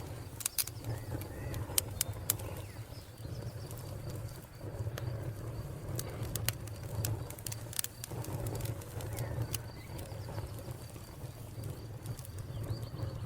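Wood fire crackling with frequent sharp pops over a low steady rumble, a cricket chirring on one steady high note behind it, and occasional low bird calls.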